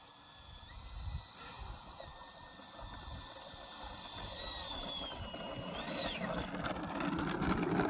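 Jet airliner engines on landing: high whine tones that step and glide in pitch over a rush of jet noise that grows louder toward the end.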